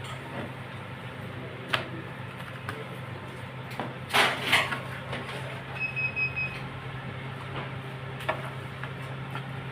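Scattered knocks and clatter over a steady low hum, the loudest a pair of knocks about four seconds in, followed by a short high beep-like tone.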